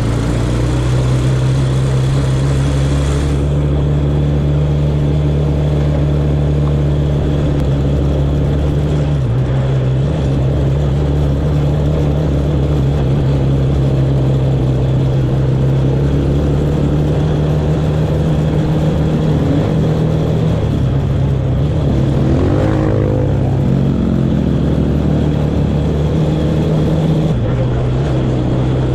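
Engine of a small off-road vehicle running steadily at a near-constant pitch while riding, with a short rise and fall in pitch about 22 seconds in.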